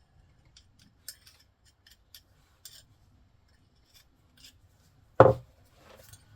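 Small metal parts and tools being handled, giving scattered light clicks and ticks, with one much louder knock a little after five seconds in.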